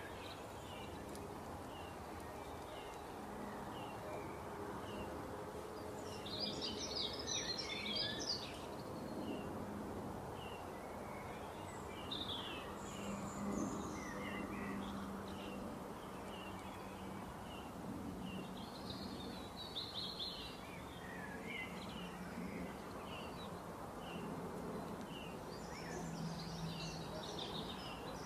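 Birds chirping: a short high chirp repeats about twice a second, with a brief burst of fuller song every several seconds, over a faint steady low hum.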